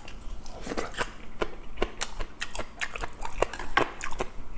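Chewing a mouthful of fresh, unfermented kimchi: an irregular run of crisp crunches and wet clicks, several a second.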